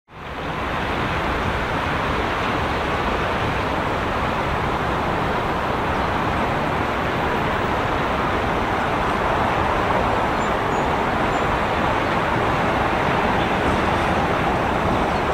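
Freight train hauled by a 2ES6 electric locomotive rolling through a station: a steady noise of wheels on rails that fades in at the start and grows slightly louder towards the end.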